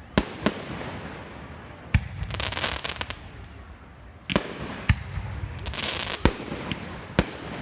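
Aerial fireworks going off: about eight sharp bangs at irregular intervals, with two longer stretches of crackling, one about two seconds in and one near six seconds.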